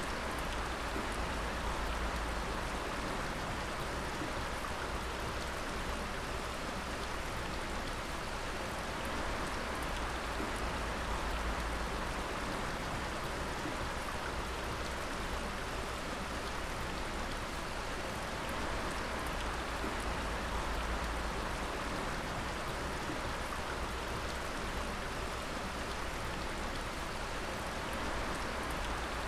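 Water dripping: many drops falling close together into a steady, even splashing hiss with no pauses.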